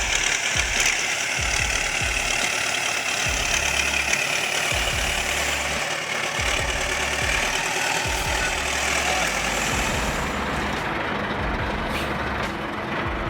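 Heavy diesel machine engine running steadily under a constant hiss, the hiss thinning out near the end.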